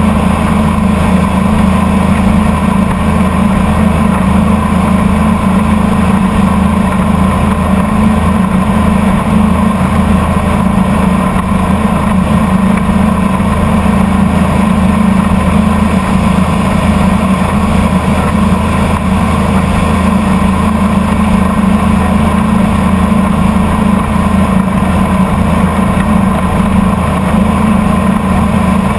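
Motorboat engine running steadily under way, loud and unchanging throughout.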